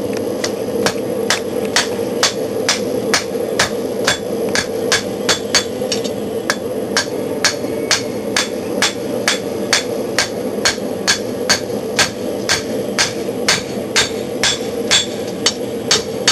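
Hand hammer striking hot steel on an anvil at a steady pace of a little over two blows a second, drawing out the point of a hunting knife blade. Under the blows runs the steady rushing of the forced-air forge.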